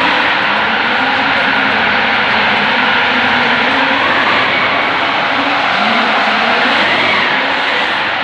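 Drift car's engine revving up and down over and over, over a loud steady rush of tyre and engine noise while the car is drifted around the arena.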